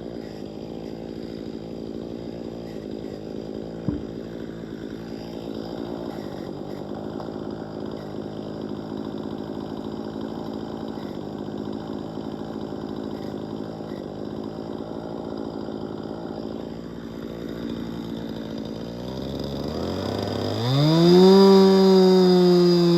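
Chainsaw of an Alaskan chainsaw mill running steadily at a constant engine note, with one sharp knock about four seconds in. Near the end the engine pitch sweeps sharply upward and the sound gets louder.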